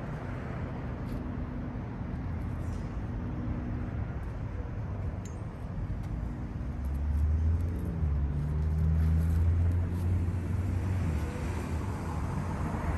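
Motor vehicle engine running with a low hum over street traffic noise, swelling louder for a few seconds past the middle.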